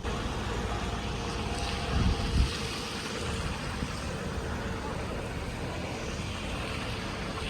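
Steady rumbling noise with wind on the microphone, swelling in low gusts about two seconds in.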